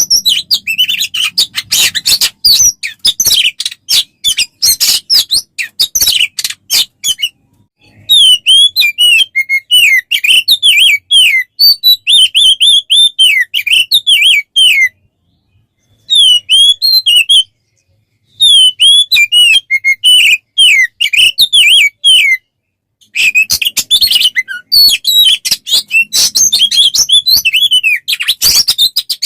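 Songbird singing a long, varied song: fast chattering notes at first, then quick whistled phrases, with two short pauses about halfway, then dense chatter again near the end.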